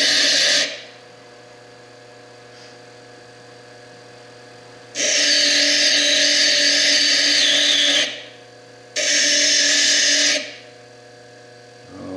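Foredom bench lathe with a small slitting disc grinding into a fire agate, cutting away its chalcedony overburden, in loud bursts: one stops under a second in, two more come about 5 s and 9 s in, and a fourth starts near the end. Between the bursts the lathe motor runs with a steady quiet hum. A wavering high whine rides over the second burst.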